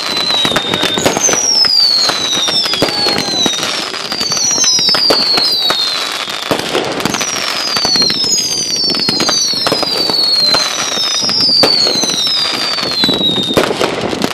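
Fireworks going off close by: a string of whistles, each falling in pitch over about a second, one after another, over a dense crackle of small pops and bangs.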